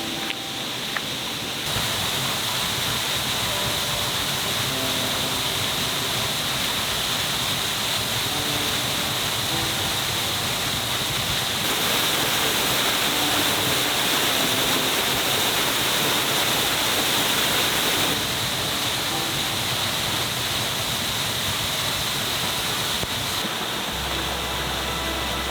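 Steady rushing water from a waterfall, a little louder through the middle of the stretch.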